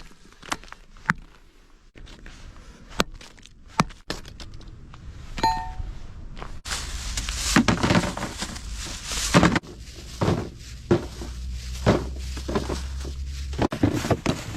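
Iron hammer striking lumps of coal to break them into small pieces: a run of sharp, separate knocks, then from about halfway a denser stretch of knocks and clattering coal pieces.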